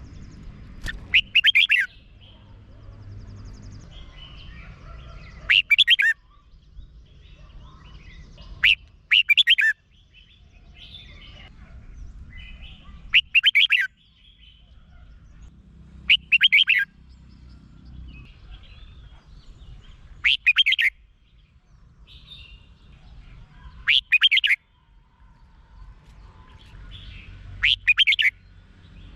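Red-whiskered bulbul singing: short, loud, bubbly song phrases repeated about every three to four seconds, with fainter chirps in between.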